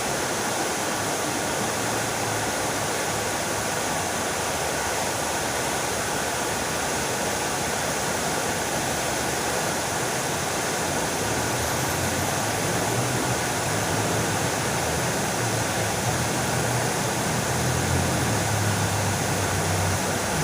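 Fountain water splashing steadily. In the second half a low rumble builds and grows louder toward the end.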